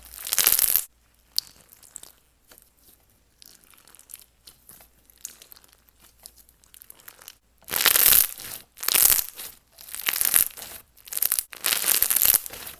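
Bead-textured slime being squished and stretched by hand: crackly, crunchy popping, faint and scattered at first, then loud squishes about once a second through the second half.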